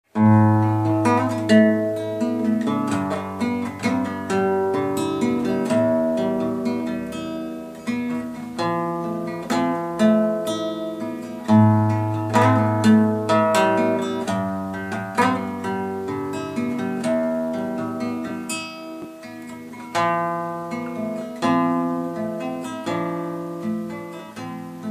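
Acoustic guitar playing an instrumental introduction: plucked notes and strummed chords in a folk style.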